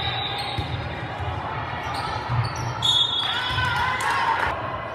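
A ball bouncing repeatedly on a gym floor, with voices of players and spectators echoing in a large hall.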